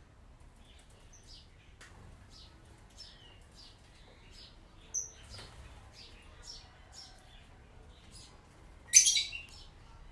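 Small birds chirping in short falling chirps, about two a second. There is a sharp high note about five seconds in and a much louder harsh burst near the end.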